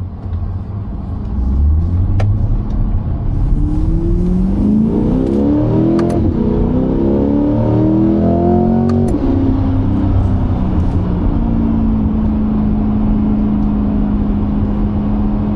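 C8 Corvette's V8 through an AWE aftermarket exhaust, heard inside the cabin: the engine revs up under acceleration, its pitch drops sharply at a gear change about six seconds in, climbs again, then eases off into a steady drone at cruise.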